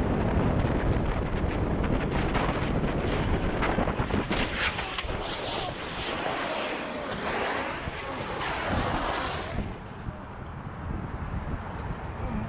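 Vehicle road noise and wind rumble on the microphone of a moving car. From about four seconds in, a hissing sound with a sweeping, rising-and-falling pitch runs for about five seconds, then drops away.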